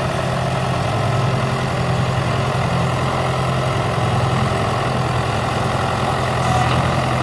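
Ford 881 four-cylinder diesel tractor engine running steadily, freshly rebuilt.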